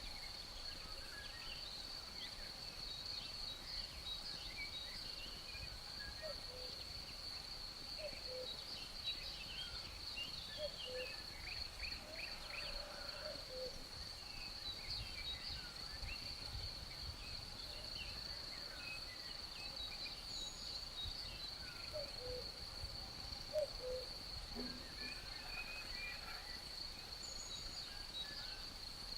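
Nature ambience: a steady, high-pitched insect chorus drones throughout, with scattered short bird chirps and calls coming and going over it.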